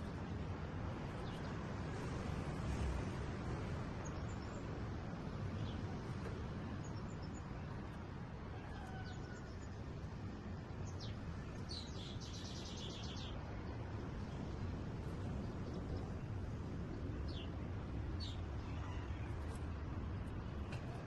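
White-rumped shamas giving short, scattered chirps and calls, with one fast rattling call about twelve seconds in, over a steady low background rumble.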